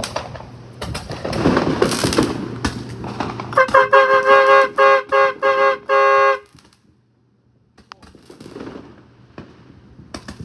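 Crackling noise with sharp clicks, then a vehicle horn honking in a rhythmic run of about seven short two-tone blasts, the last held a little longer.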